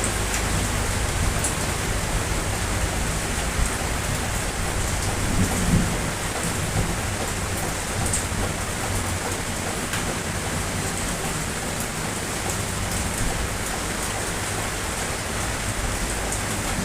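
Steady rain falling, an even hiss with scattered sharper drop ticks and a low rumble underneath.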